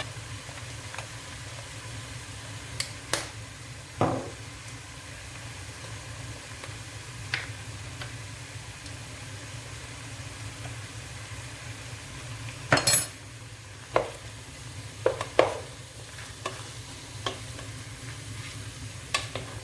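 Chicken pieces sizzling as they brown in a frying pan, with a utensil knocking against the pan now and then, the loudest knock about two-thirds of the way through.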